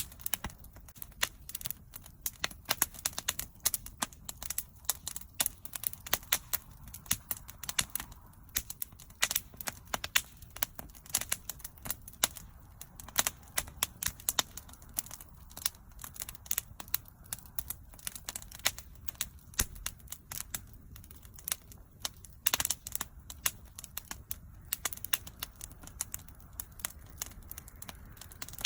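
Wood bonfire burning, with a dense run of irregular sharp crackles and pops over a low rumble of flame.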